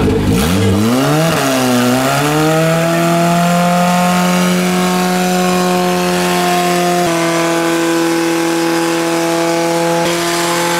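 Honda Civic's four-cylinder engine revving up, with a brief dip about a second and a half in, then held at high revs in a steady drone while a front tire spins in a smoky burnout.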